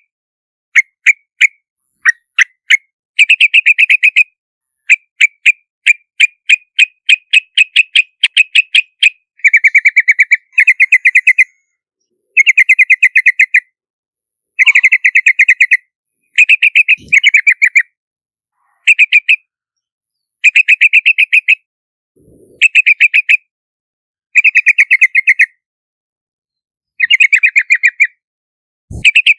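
Yellow-vented bulbul calls in a lure recording: bursts of rapid chattering notes, each about a second long, separated by short gaps, with a run of separate sharp notes near the start.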